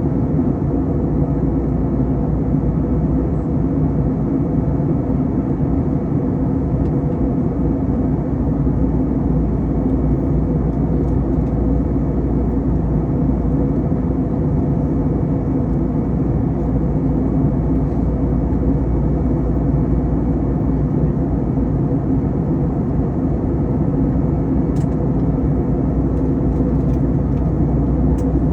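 Steady cabin noise of an Airbus A321 airliner in flight: the constant drone of the jet engines and airflow past the fuselage, with a few faint steady tones in it.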